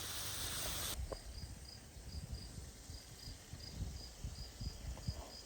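Faint, evenly repeated short high chirps, about three a second, like a cricket or other insect, over low handling rumble. A hiss during the first second cuts off abruptly.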